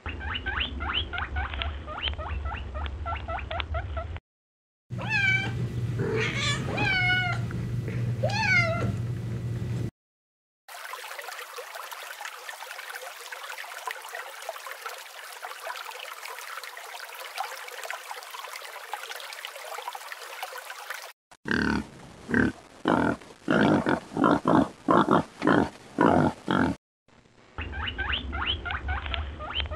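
A run of different animal sounds cut one after another with short gaps: rapid high squeaks, four rising-and-falling cat-like calls, a long rough hissing noise, then a series of loud regular pulses about two a second. Near the end, a guinea pig squeaking rapidly.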